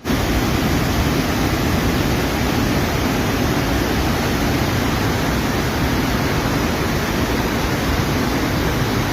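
Steady, unbroken rushing of fast-flowing floodwater, a dense hiss with no change in level.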